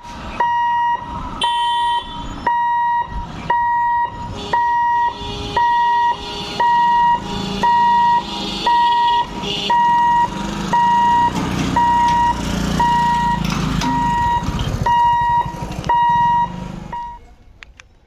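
Level-crossing warning alarm beeping in a steady pitched pattern, about two beeps a second, then cutting off near the end. A low rumble builds underneath through the second half.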